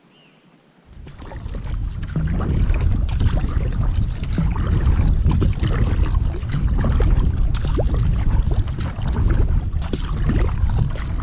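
Wind buffeting the microphone over water splashing and lapping around a kayak, starting suddenly about a second in and running loud and steady.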